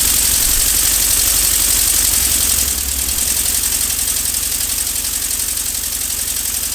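Lego pneumatic engine (an inline four-cylinder turbo LPE) running on compressed air: a steady hiss of exhausting air over fast, even chatter from the cylinders and valves. It eases down a little in level about a third of the way through.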